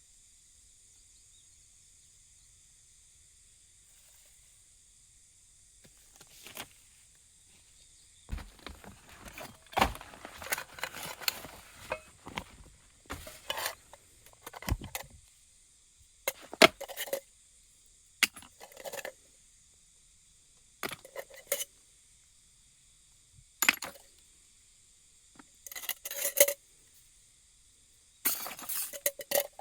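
Camp cookware and utensils being handled: repeated clinks and clattering of metal and glass pieces knocking together, in short bursts starting about a quarter of the way in, over a faint steady high hiss.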